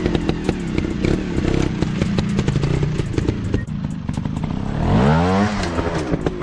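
Dirt bike engines running on rough ground, one revving up and dropping back about five seconds in, over steady clattering and ticking.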